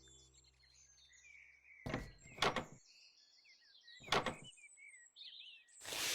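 Small birds chirping in the background, broken by four short, loud noise bursts that are the loudest sounds, two about two seconds in and two more later. A sustained musical tone fades out in the first two seconds.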